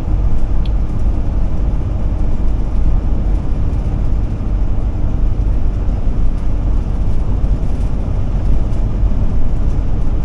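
Steady drone of a 2007 Ford E450 Forester motorhome cruising on the highway, heard from inside the cab: engine, tyre and wind noise.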